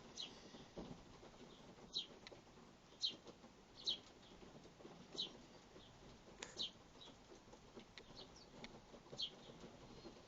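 Sparrows giving short, sharp single chirps, about eight of them at irregular intervals a second or so apart, over a faint soft rustling at the feeder.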